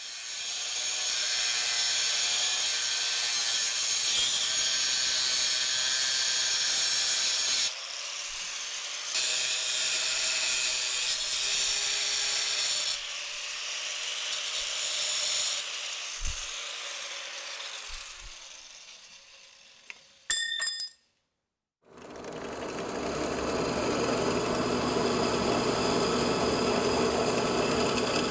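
Power tools cutting or grinding steel knife stock: a motor-driven tool running with a loud high hiss in several edited stretches. One stretch winds down about eighteen seconds in, and after a brief gap another runs steadily.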